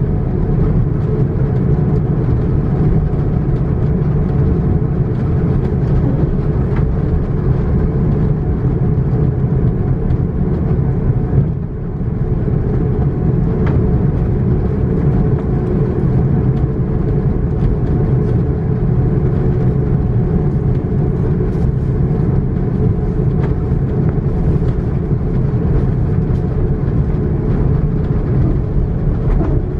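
Airliner cabin noise on an Airbus A330-900: its Rolls-Royce Trent 7000 turbofans running at high thrust just after takeoff, heard from inside the cabin as a steady low rumble with airflow rush. The level dips briefly about twelve seconds in.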